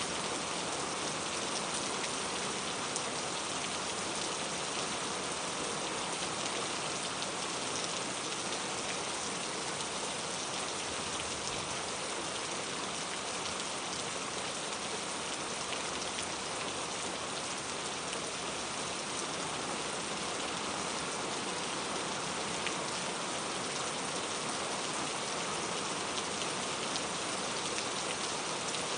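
Steady rain falling on a surface, a constant even patter of raindrops.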